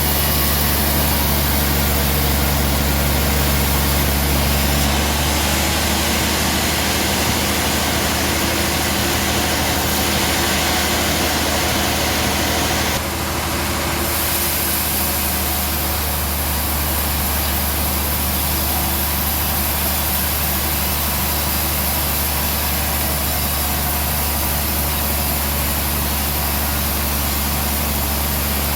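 Band sawmill machinery running steadily, with a strong low engine-like hum under a wide hiss; the sound drops slightly and shifts in tone about halfway through.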